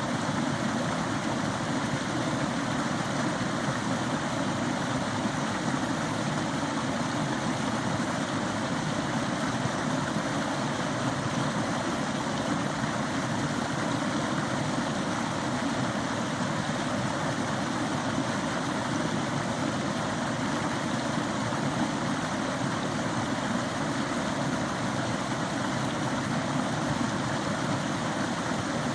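Small forest stream running, a steady rush of flowing water.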